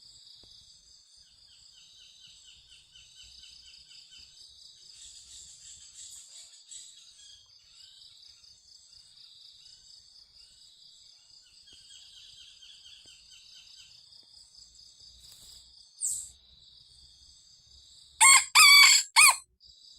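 Crickets trill steadily in the background. Near the end a rooster crows once, loud and short, in about three quick parts.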